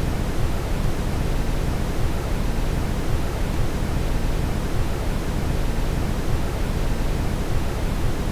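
Brown noise: a steady, deep rushing hiss with most of its weight in the bass and no changes.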